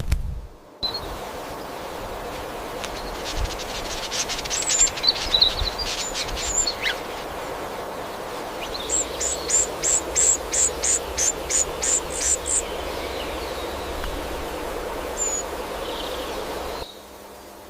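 Birds chirping over a steady forest background hiss. A few scattered high calls come first, then a run of about a dozen short high chirps at roughly three a second. The background changes abruptly near the end.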